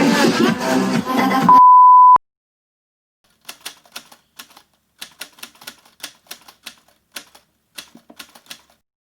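Crowd noise cuts off into a loud, steady beep lasting about half a second. After a moment of silence comes a run of quick, irregular clicks like typewriter keys, for about five seconds.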